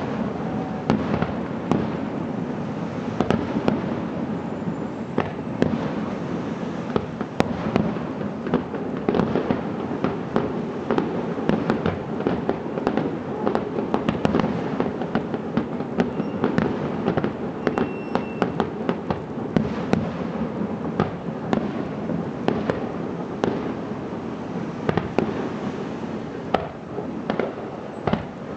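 Fireworks display: a dense, continuous run of shell bursts and crackling, many sharp bangs following one another with hardly a pause.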